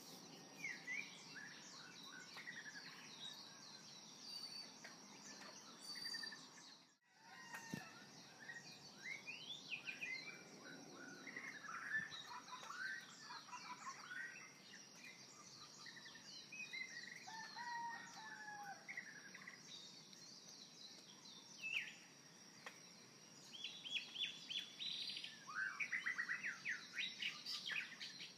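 Several birds chirping and singing in short calls and trills, over a steady high background hiss, with a brief dropout about seven seconds in and denser calling near the end.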